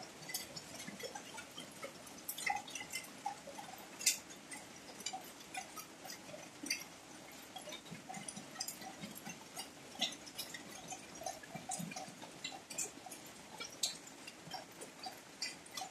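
Heavy rain falling steadily as a soft hiss, with many sharp, irregular drops splashing close by.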